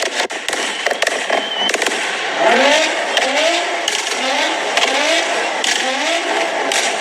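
Nissan GT-R engines revved hard in a rev battle, with sharp crackles and pops at first. From about two seconds in comes a quick string of rising and falling revs, roughly three every two seconds.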